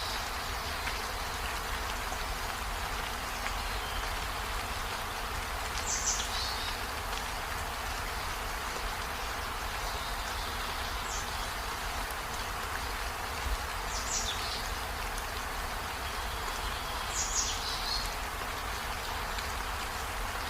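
Steady rain falling as an even hiss, with a short, high falling chirp every few seconds.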